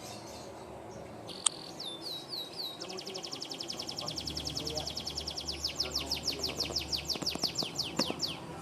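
Domestic canary singing: three short falling notes, then a long fast trill of repeated high notes, about eight a second, turning into quicker downward sweeps toward the end. A single sharp click comes just before the song starts.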